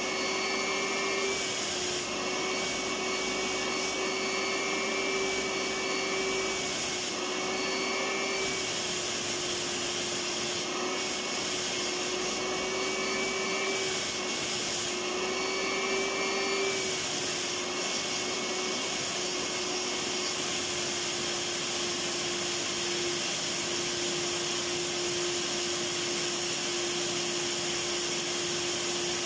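Electric vacuum cleaner running steadily: a constant motor whine over the hiss of rushing air, its pitch wavering slightly now and then.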